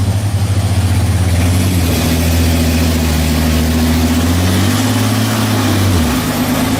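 Heavy vehicle engine running loud and steady, its low drone shifting pitch a few times and dropping about six seconds in.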